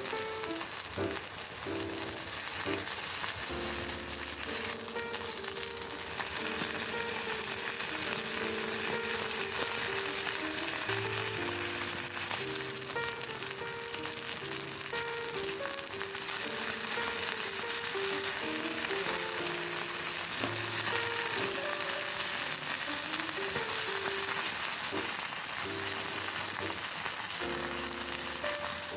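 Food sizzling steadily in a hot pan over a fire, with gentle background music.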